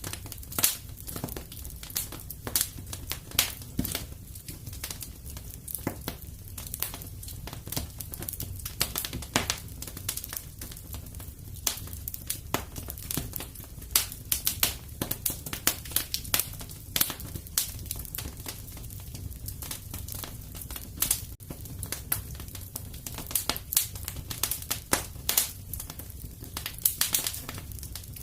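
Fire in a fireplace crackling steadily, with many irregular sharp pops and snaps over a low, even rumble.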